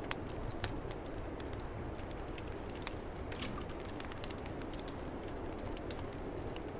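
Fireplace wood fire crackling with scattered sharp pops, over a steady low rumble of snowstorm wind.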